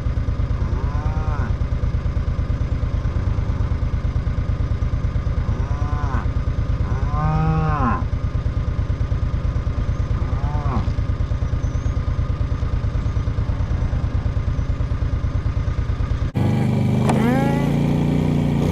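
Cattle mooing repeatedly over a steady, rapidly pulsing machine running in the background. About 16 seconds in the background cuts abruptly to a steadier engine hum, with another moo after it.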